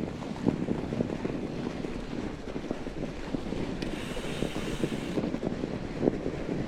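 Bike ridden over a snowy trail: an irregular stream of crunching and rattling from tyres and frame, with wind buffeting the microphone.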